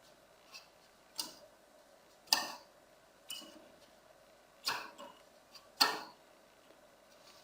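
Small PC power-supply cooling fan being spun by finger, its bearing just oiled: about six sharp ticks at irregular intervals as the blades are flicked round.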